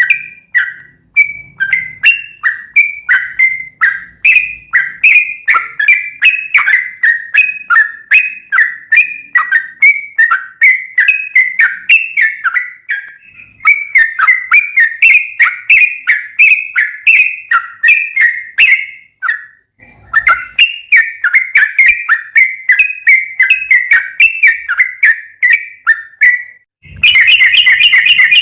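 Yellow-vented bulbul (trucukan) calling over and over in quick, short chattering phrases, with two brief pauses. Near the end a louder, denser burst of calls sets in.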